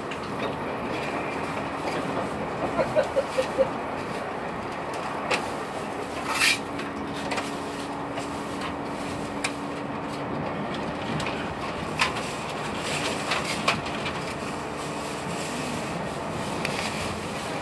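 Passenger train running, heard from inside the carriage: a steady rumble of wheels on the rails with a few sharp knocks and rattles now and then, and a steady hum for several seconds in the middle.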